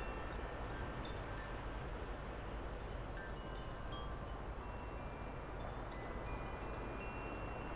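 Wind chimes ringing now and then, short high tones at several pitches, some held for about a second, over a steady low outdoor rumble.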